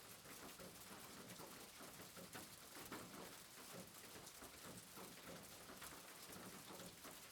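Faint steady rain, with scattered drops pattering irregularly.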